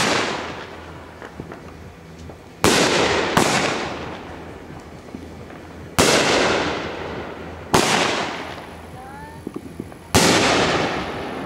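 Aerial fireworks bursting overhead: five sharp bangs one to three seconds apart, the first two close together. Each bang is followed by an echo that fades over a second or two.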